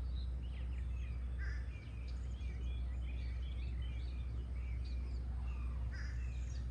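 Several birds chirping and singing in quick, overlapping short notes over a steady low background rumble.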